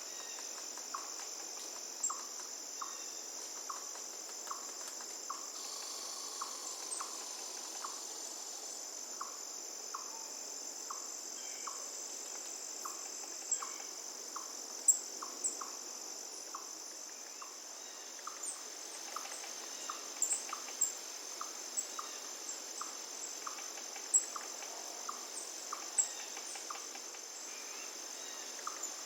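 A steady, high-pitched insect chorus over a faint hiss of running river water. A short call repeats about once a second, and a few louder sharp chirps come in the second half.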